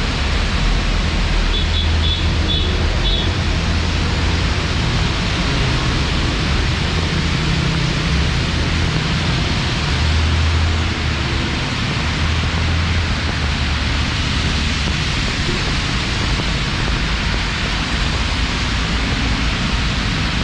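Heavy monsoon rain pouring down in a steady, dense hiss, with a low rumble underneath.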